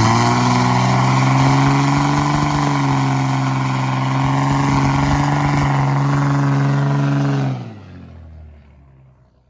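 Diesel pickup truck engine revved up and held at high, steady revs for about seven seconds, then let off, its sound falling and fading away near the end.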